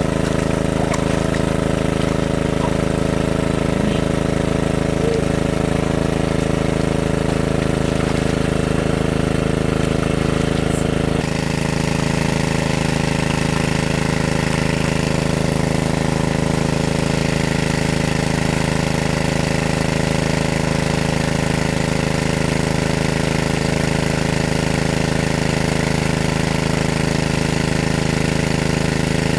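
Small engine running steadily at idle-like speed, with an abrupt change in its tone about eleven seconds in.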